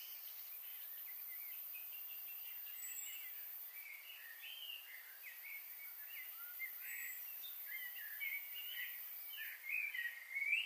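Birds chirping and whistling, a steady run of short calls that gets busier in the second half, with a faint thin high note recurring about every four seconds.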